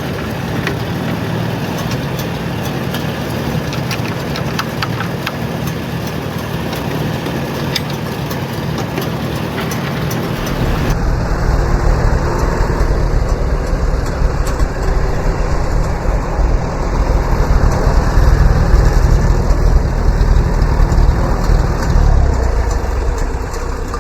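Farmall A tractor's four-cylinder gasoline engine running steadily as the tractor is driven. About eleven seconds in, the sound gets louder and deeper.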